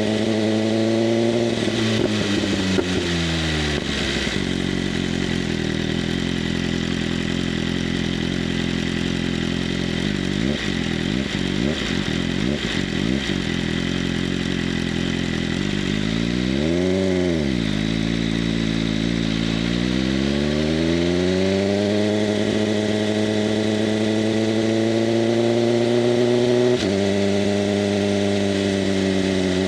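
BMW M1000RR's inline-four running through an SC-Project CRT exhaust under riding: the revs fall off the throttle with a few crackles from the exhaust, the engine runs at low revs for a while, gives one quick rev blip about halfway, then pulls up through the revs and drops suddenly on an upshift near the end.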